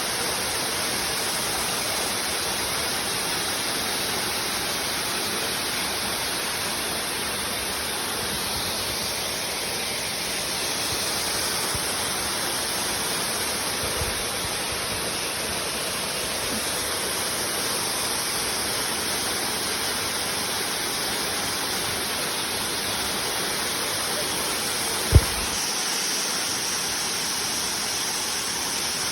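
Waterfall rushing steadily, an even wash of falling water. A sharp thump about 25 seconds in, with a fainter knock some ten seconds before it.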